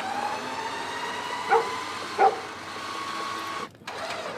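A dog barking twice, short and loud, over a steady mechanical whine that cuts off abruptly near the end.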